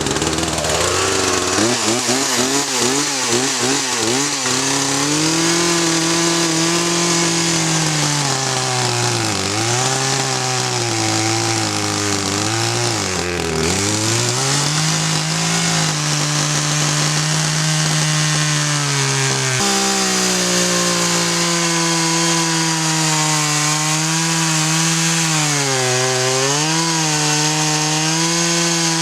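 Two-stroke chainsaw running at high speed, cutting through a log. Its pitch wavers for the first few seconds, then holds steady and dips several times as the saw loads in the cut and binds in the kerf.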